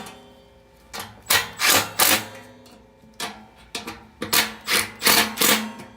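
Power drill driving the blower motor's mounting screws in about ten short bursts, tightening the three screws in turn.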